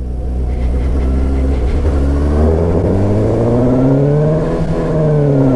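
Suzuki GSX-S750's inline four-cylinder engine running at steady low revs, then pulling up through the revs for about two seconds and falling off again as the throttle eases.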